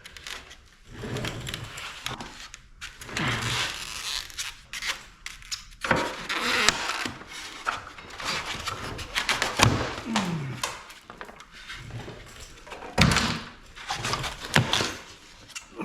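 Irregular metal clanks, knocks and scraping of hand tools and sheet-metal parts as an air conditioner unit is taken apart.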